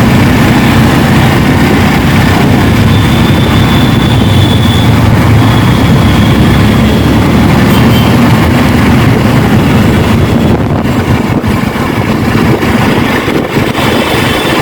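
Riding on a Yamaha R15 motorcycle: steady loud wind rush over the microphone, with the bike's engine and traffic noise underneath. The wind noise dips and wavers near the end.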